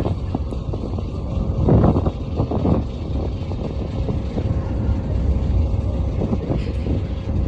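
Strong wind buffeting the microphone: a steady low rumble with a few louder gusts about two seconds in, and a faint steady hum underneath.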